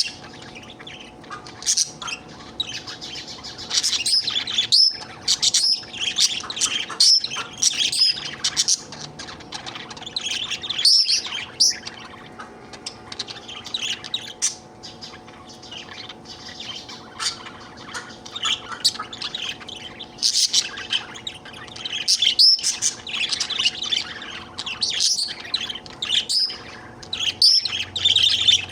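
Budgerigar chattering and warbling, a stream of quick chirps and twitters with short pauses, the contented chatter of a happy budgie.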